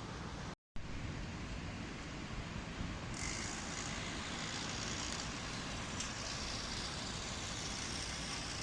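Steady outdoor background noise with a low rumble, cut by a split-second dropout just after the start. About three seconds in, a brighter steady hiss joins it.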